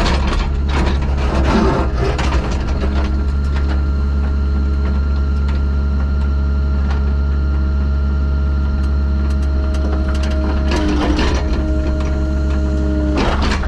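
Engine running steadily with a low, even drone, with bursts of clanking and scraping in the first couple of seconds and twice near the end.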